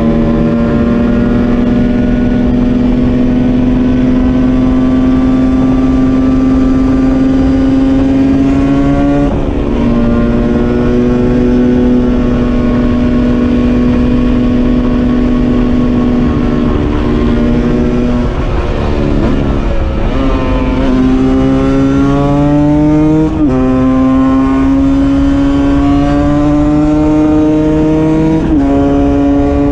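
Husqvarna SM 125 supermoto engine with a Scalvini exhaust pulling hard under load. In each gear the pitch climbs slowly, then falls abruptly at an upshift, about five times. Near two-thirds through it drops away and quickly climbs again, as the bike slows and picks back up.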